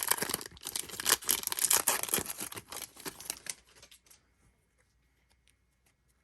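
A trading card pack's wrapper being torn open and crinkled for about four seconds. Then only a few faint ticks as the cards are handled.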